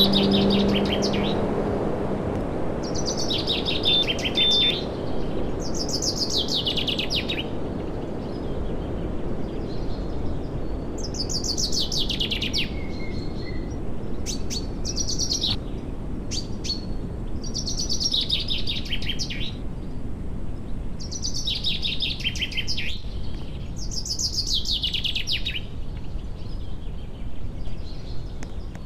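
A songbird singing a short, falling, trilled phrase, repeated every few seconds, over a steady low background noise.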